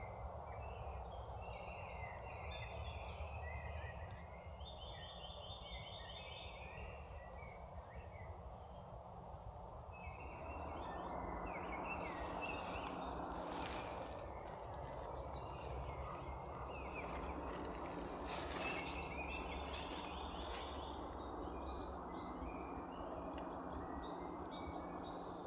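Small birds singing, repeated short chirping and trilling phrases, over a steady outdoor background hiss that gets a little louder about ten seconds in.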